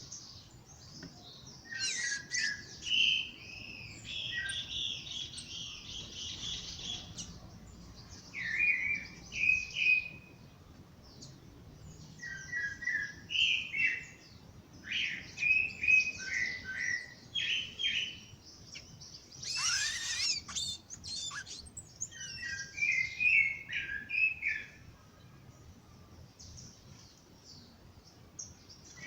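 Several birds singing in a dawn chorus: repeated short chirping and warbling phrases from more than one bird, with a louder sweeping call about twenty seconds in.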